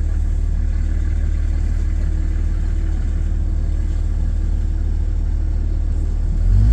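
Truck engine running at low speed, heard from inside the cab as a steady low rumble; near the end the engine note rises briefly as it is given more throttle.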